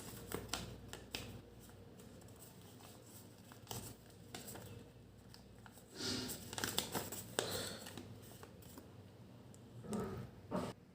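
Sheet of origami paper being handled, folded and creased by hand: faint rustles and crinkles, with louder bursts of paper handling about six seconds in and again near the end.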